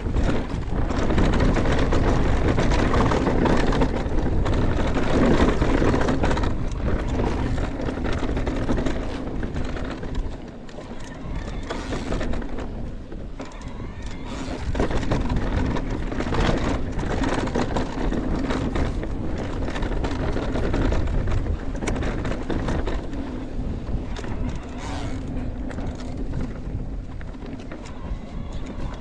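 A mountain bike rolls fast down a dirt trail: wind rushes over the microphone, the tyres roll on the dirt, and the bike rattles and knocks repeatedly over ruts and bumps.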